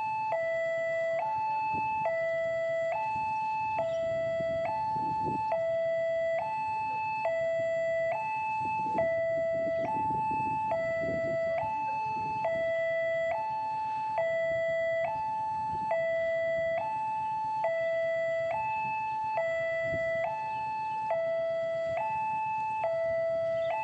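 Railway level crossing warning alarm sounding: an electronic two-tone signal alternating steadily between a high and a low note about every 0.8 seconds, the sign that a train is approaching the crossing. A low rumble of vehicles runs underneath it.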